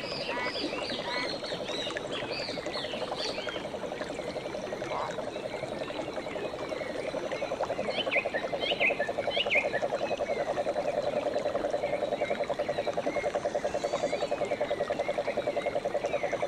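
Frogs calling in chorus: a continuous fast-pulsing trill that grows louder after about seven seconds, with high, quick chirping calls over it, thickest near the start and again around eight to ten seconds in.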